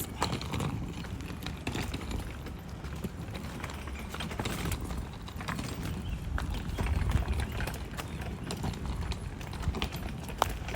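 Footsteps of a person walking, an irregular series of crunching steps over a steady low rumble.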